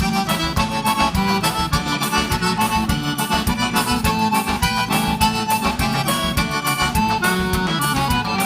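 Live gaúcho dance band playing an instrumental passage: an accordion leads over bass and drums with a steady dance beat.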